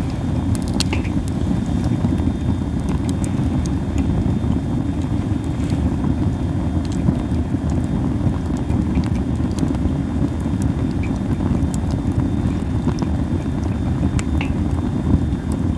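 Wood fire of masaki (Japanese spindle tree) branches burning, crackling with scattered sharp pops over a steady low rumble.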